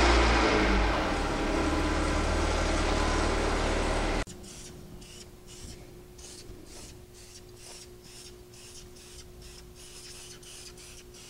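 A car engine running for about four seconds, then cut off abruptly. After it comes a much quieter run of short repeated hisses, about two or three a second, from a Preval sprayer laying light coats of silver paint on the wheel.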